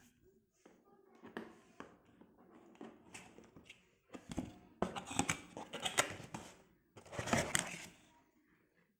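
Irregular handling noises: rustling and crinkling, with scattered clicks and knocks, louder in two spells in the second half.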